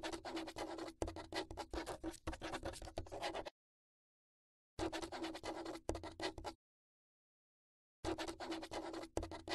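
Marker scribbling, as in a whiteboard drawing animation: three bursts of scratchy strokes. The first lasts about three and a half seconds, then two shorter bursts follow about five and eight seconds in, with dead silence between them.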